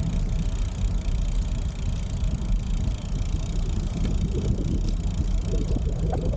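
Steady low wind rumble on the microphone of a camera carried on a moving bicycle, with a few faint rattles and clicks in the second half.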